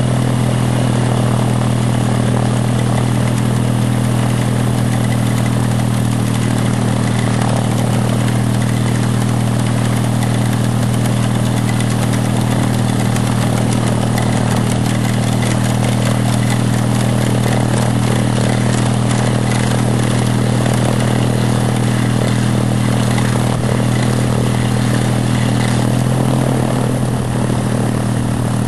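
Geo Metro three-cylinder car engine on an autogiro running loud and steady at a constant speed while the unpowered rotor blades are spun up. The level starts to drop right at the end.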